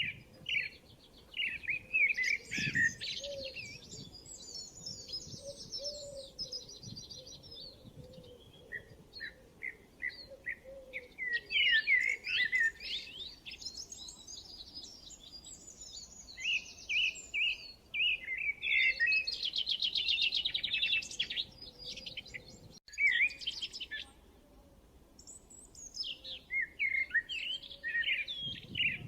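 Several birds calling at once: quick repeated chirps overlapping with fast, rattling trills that come and go every few seconds.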